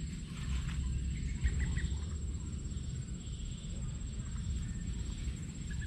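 A few short clucking bird calls, a quick group about one and a half seconds in and one more near the end, over a low rumble on the microphone.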